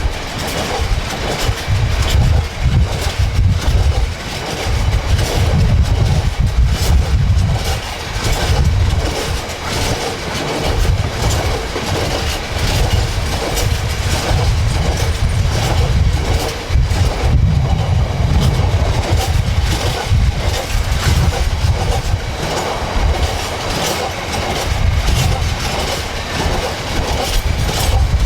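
A train rolling steadily past close by: a heavy low rumble of wheels on rail with a constant run of sharp clicks of wheels over rail joints.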